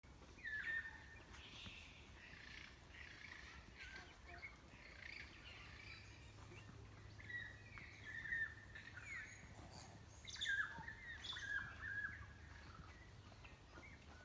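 Several forest birds singing, with short chirps and whistled notes coming thick around ten seconds in, over a faint low rumble.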